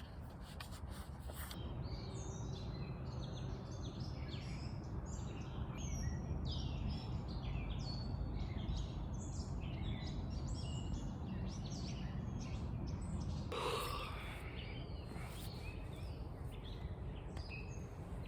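Many small birds chirping and calling in woodland, over a steady low hum of distant traffic.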